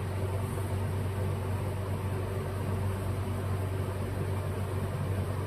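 Steady low hum with an even hiss, unchanging throughout: background machine noise such as a running fan or similar appliance.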